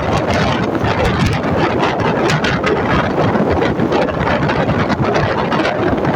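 A steady, loud rushing noise with scattered fine ticks throughout.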